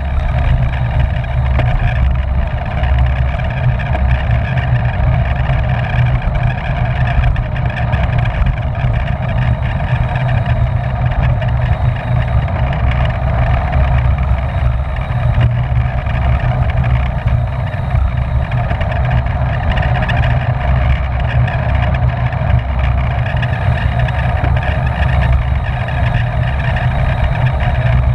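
Steady wind noise rushing over the microphone of a camera on a racing bicycle at speed, a loud, even rumble.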